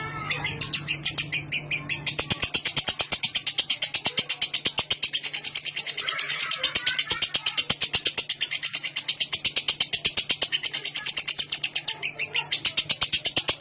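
Lovebird's long, unbroken 'ngekek' chatter: a fast, even run of sharp, high-pitched notes repeated many times a second without a pause.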